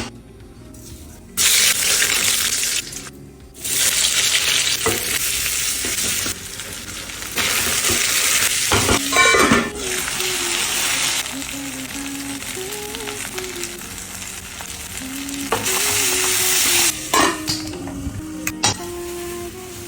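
Food sizzling in a hot pan as it is stirred, in several separate stretches that start and stop suddenly.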